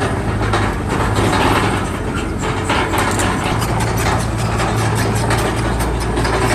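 Heavy diesel earthmoving machinery running steadily with a low hum, with frequent metallic clicks and clanks over it.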